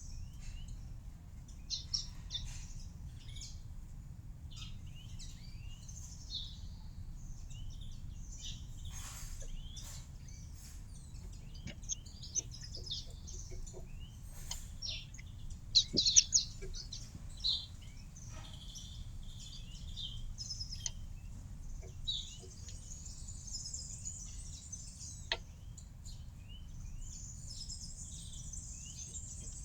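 Small birds chirping and calling in many quick, short, high notes, with a cluster of louder chirps about halfway through, over a steady low background rumble.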